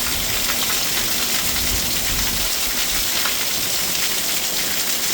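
Heavy rain pouring down steadily, a dense hiss of drops with many fine ticks of individual drops hitting surfaces.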